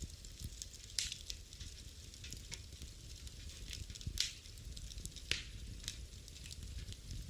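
Wood fire in a fireplace crackling over a low steady rumble, with scattered sharp pops, the loudest about a second in and again at about four and five seconds.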